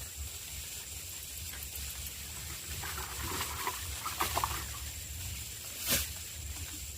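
Light drizzle pattering outdoors as a steady hiss, with a few faint chirps midway and one sharp click about six seconds in.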